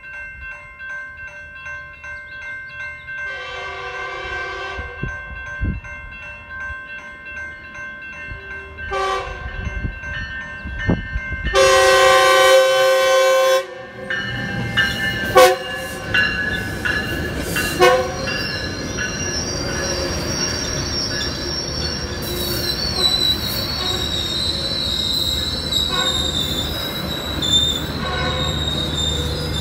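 A Metrolink commuter train sounds its horn three times for the grade crossing: a long blast, a short one, then the longest and loudest, over the steady ringing of the crossing bells. As the bi-level cars roll past, the wheels squeal with a high, wavering screech, and a low rumble grows near the end.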